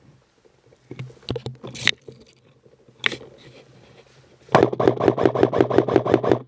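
M4 airsoft gun firing a full-auto burst, about eight to nine shots a second over the hum of its mechanism, lasting about two seconds. Before the burst there is rustling of gear and a few sharp clicks as the player moves.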